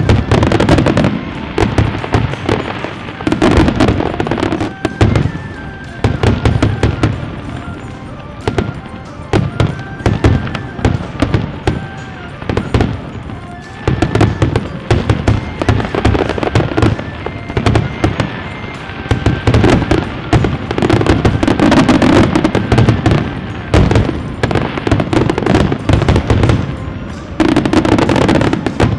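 Fireworks display: a dense, continuous barrage of bangs and crackling, with heavier low booms every few seconds. Music plays underneath.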